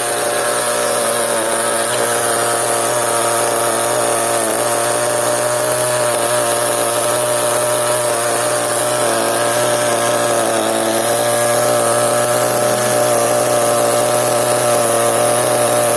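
Small two-stroke nitro glow engine of a CEN RC monster truck running steadily, its pitch wavering slightly around a fairly constant speed.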